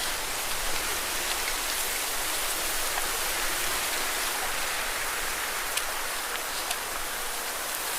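Lake waves splashing against rocks: a steady watery hiss with scattered small sharp splashes.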